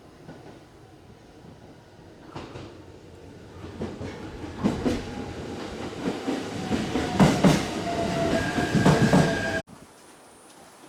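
Shinano Railway 115-series electric train running past on the station tracks, its wheels clacking over the rail joints in pairs. The sound grows louder from about two seconds in, a thin whine joins it near the end, and it cuts off abruptly just before the end.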